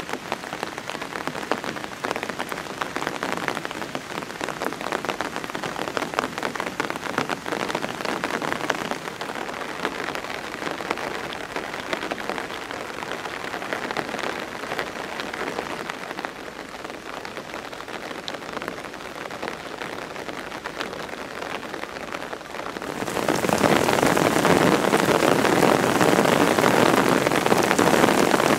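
Steady rain falling, a dense patter of many drops. It abruptly becomes much louder about five seconds before the end.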